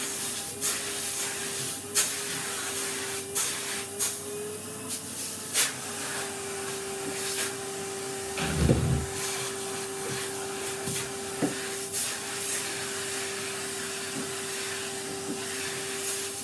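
Vacuum cleaner running steadily, a constant whine with a hiss of rushing air, while dust is cleared off a table being sanded. Short clicks and scrapes come at irregular intervals, with one low thump about halfway through.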